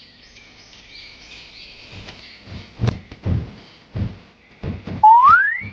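Background birdsong chirping steadily. A few low knocks come around the middle, and near the end a loud whistle-like tone rises in pitch.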